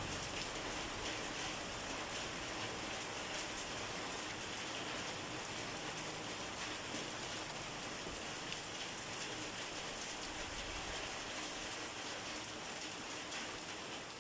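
Steady rain falling: an even, hissy wash of countless drops with no let-up.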